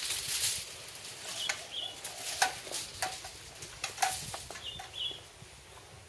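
Birds giving short high chirps, two pairs of them, with sharp clicks and a rustle, as of flapping wings, at the start.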